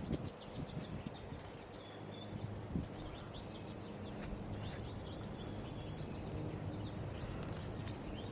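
Many small songbirds chirping and twittering in short high calls, over a steady low outdoor background hum.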